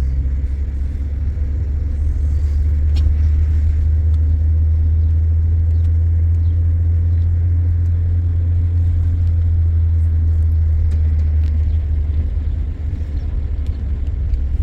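Steady low rumble of a car's engine and road noise heard from inside the cabin of a moving car.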